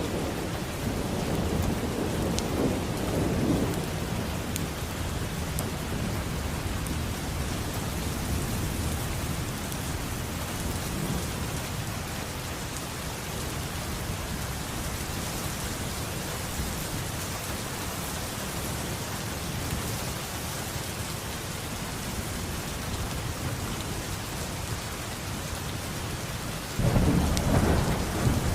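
Steady heavy rain falling, with rolling thunder rumbling low in the first few seconds and a louder thunder rumble breaking in suddenly near the end.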